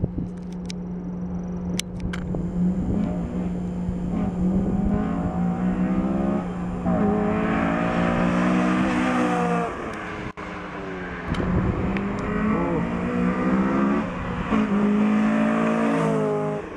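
Honda Civic Si's four-cylinder engine revved several times through a Skunk2 header and Mugen cat-back exhaust, the exhaust note rising and falling in pitch with each rev, with a brief break about ten seconds in.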